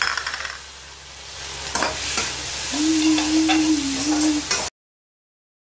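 Green peas and potatoes sizzling in oil in a steel kadai while a spatula stirs them, scraping and clicking against the pan. Near the end a steady low tone holds for about a second and a half, then all sound cuts off suddenly.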